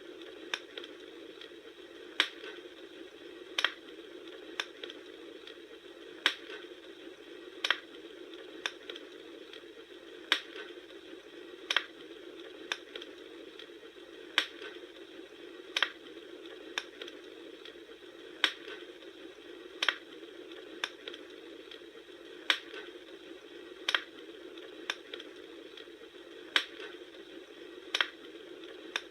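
Campfire burning with a steady soft hiss and sharp crackling pops, about three every four seconds in an evenly repeating pattern.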